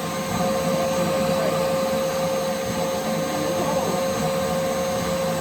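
Vacuum cleaner running steadily with a constant motor whine as it sucks dust out of a hole.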